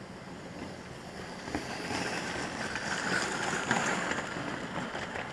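An OO gauge model train running along the track, a steady rushing rattle of wheels on rail that grows louder about a second and a half in and eases off near the end.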